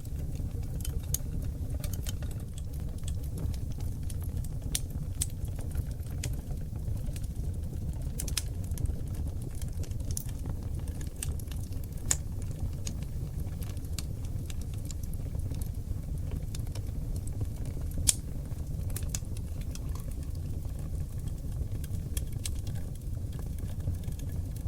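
Oak logs burning in a wood fireplace: a steady low rumble of flame with frequent small crackles and pops, one sharp pop louder than the rest about three-quarters of the way through.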